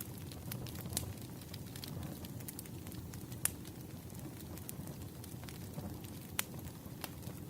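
A wood fire burning: a steady low rumble of flames with scattered sharp crackles and pops from the burning logs, the loudest about a second, three and a half seconds and six and a half seconds in.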